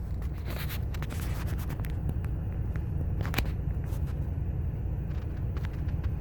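Car backing up slowly: a steady low rumble of engine and tyres, with scattered clicks and scrapes.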